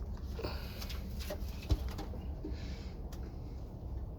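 Domestic pigeons cooing, with a few short clicks and one sharp thump under two seconds in, over a low steady rumble.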